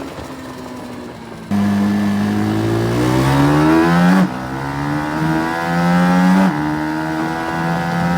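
Mini GP bike's 160cc engine accelerating hard through the gears: it comes on loud about a second and a half in, and its pitch climbs, drops sharply at a shift, and climbs again, twice.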